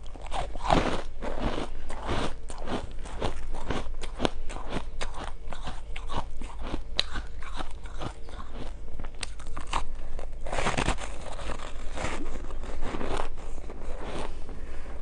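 Person biting and chewing frozen flavoured shaved ice, a rapid string of crisp crunches with louder bursts of bites about ten and twelve seconds in.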